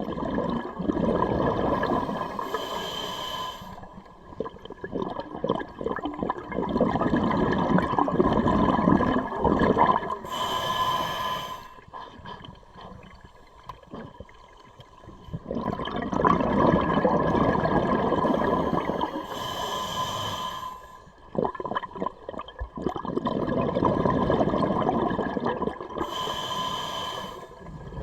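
Scuba diver breathing through a regulator underwater: slow, even breaths, each a short hissing inhale followed by a long bubbling exhale, repeated about three times.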